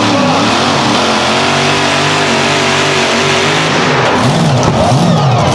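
A pulling tractor's engine running loud and steady at high revs, its pitch rising and falling a few times near the end.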